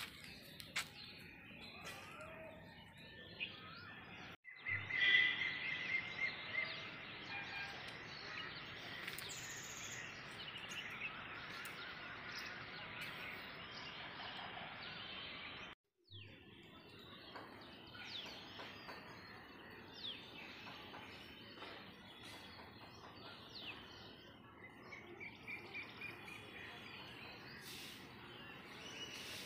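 Several birds chirping and calling. A few seconds in, a denser, louder chorus starts abruptly, with a fast repeated trill, and lasts about ten seconds. After that the calls thin out to scattered chirps and another trill near the end. The sound drops out briefly twice.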